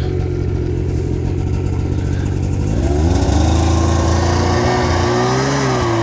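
A motor vehicle engine running steadily at low speed, then revving up about three seconds in and holding at a higher, steady pitch, with a brief dip in pitch near the end.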